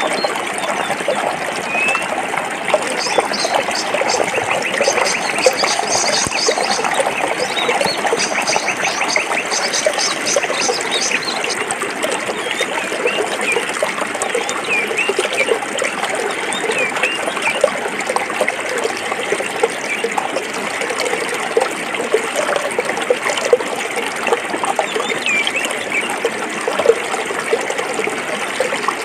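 A stream running and gurgling over rocks, a steady rush full of small bubbling splashes. A few seconds in, a rapid high trill joins it for several seconds.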